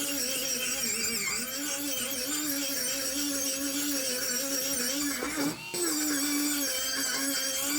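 A small power tool's motor running steadily, its pitch wavering slightly as the load changes, with a brief drop and then a slightly higher pitch about five and a half seconds in.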